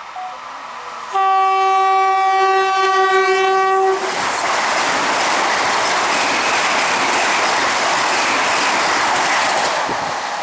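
High-speed Indian Railways express train sounding one long horn blast of about three seconds, then passing close at speed with a steady rushing clatter of wheels on the rails.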